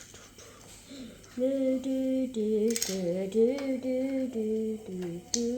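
A young voice humming a wordless tune, holding notes that step up and down, starting about a second in. A sharp click near the middle, like plastic pieces being handled.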